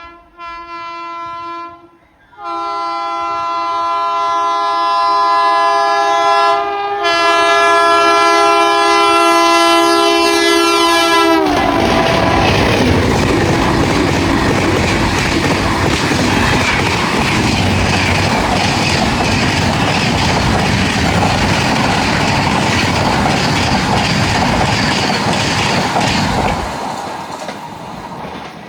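Indian Railways train horn: a short blast, then a long blast that drops in pitch as the train reaches and passes. The train then rushes past for about fifteen seconds with wheels clattering over the rail joints, fading near the end.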